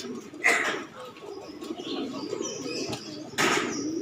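A group of roller pigeons cooing steadily, with two short loud bursts of wing flapping, one about half a second in and one near the end.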